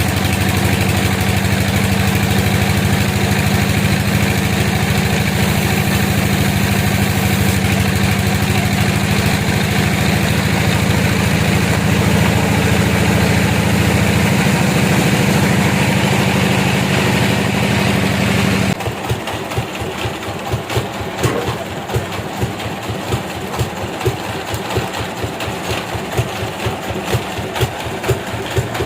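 Sawmill engine running steadily. About two-thirds of the way in, the sound drops abruptly to a quieter, rhythmic chugging.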